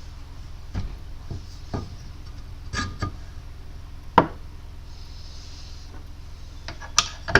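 Scattered light clicks and taps of small metal parts being handled as brake caliper guide pins are greased, one sharper tap about four seconds in, over a steady low hum.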